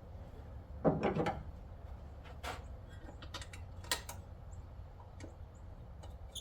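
Scattered light clicks and a short rattle about a second in, from small engine parts and hand tools being handled as the generator's Briggs & Stratton engine is put back together.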